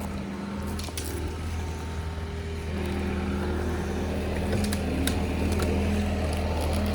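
John Deere 325G compact track loader's diesel engine running steadily with a low, even hum, growing louder about three seconds in. A few light clicks sound over it.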